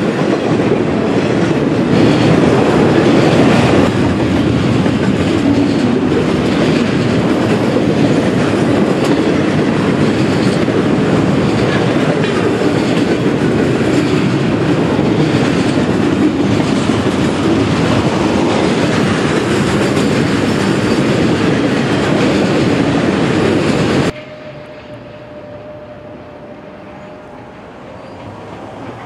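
Norfolk Southern intermodal freight train cars (trailers on flatcars and double-stack container well cars) rolling past close by, a steady loud rumble of steel wheels on the rails. About 24 seconds in it drops suddenly to a much quieter rumble as the train recedes.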